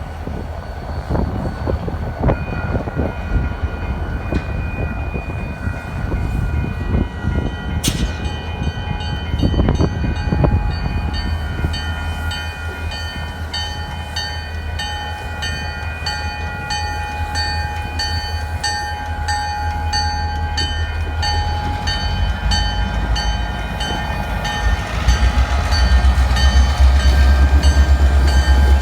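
CN diesel switching locomotives working in a yard: a steady low engine rumble with a constant whine, and a few sharp clanks in the first half. The engine rumble grows louder near the end as a locomotive works harder or comes closer.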